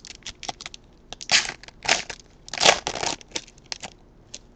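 Foil trading-card pack wrapper being torn open and crinkled, a run of sharp crackles with three louder crinkling bursts in the middle.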